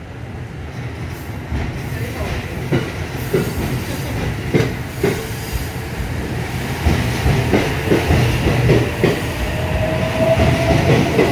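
JR West 683 series electric limited express train pulling out and gathering speed, its wheels clicking over the rail joints faster and louder as it goes. A faint rising whine joins in near the end.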